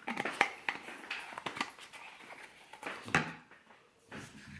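Kitchen handling noises: a series of short clicks and knocks as containers and utensils are moved and set down, the loudest about three seconds in.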